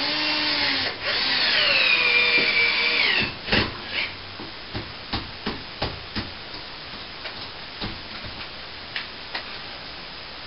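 Power drill driving a screw into a plasterboard ceiling patch: a short run, then a second run of about two seconds whose pitch falls and then holds as it slows under load. After that comes a string of sharp knocks and clicks.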